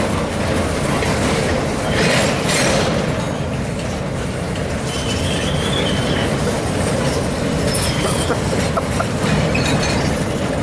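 Freight train's boxcars rolling past over a grade crossing: a steady rumble and clatter of steel wheels on rail, with a louder burst of clatter about two seconds in.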